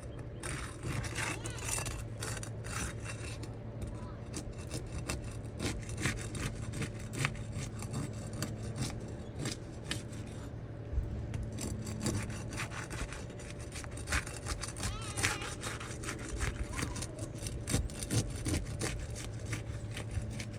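Irregular scraping and rubbing with scattered clicks, over a steady low hum.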